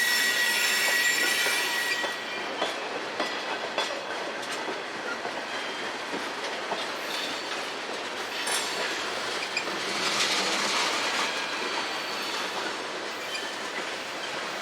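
Railroad freight cars rolling slowly past, their wheels squealing in a high steady tone for the first couple of seconds. After that they rumble and click over the rail joints, with a louder stretch of wheel noise about ten seconds in.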